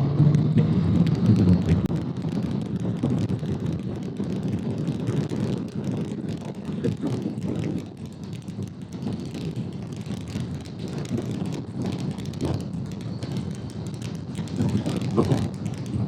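Motorcycle on the move, its engine note mixed with wind rushing over the microphone. The engine's steady hum is clearest for the first couple of seconds, then sinks into the wind noise.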